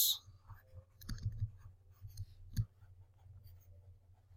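A pen writing, with light scratching and a few soft clicks over a faint low hum.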